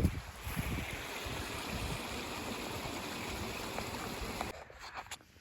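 Stream water rushing steadily, cutting off abruptly about four and a half seconds in. A brief low rumble sits at the very start.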